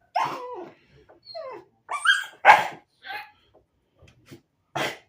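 Dog barking and yelping in about six short calls, some sliding down in pitch and one sliding up.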